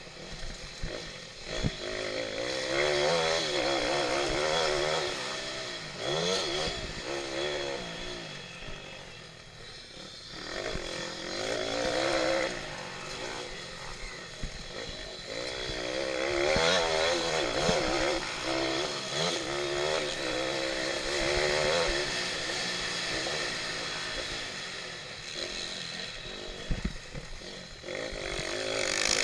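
Small single-cylinder pitbike engine racing, revving up and falling off again and again as it accelerates and shifts, with louder surges from time to time and a sharp rise near the end.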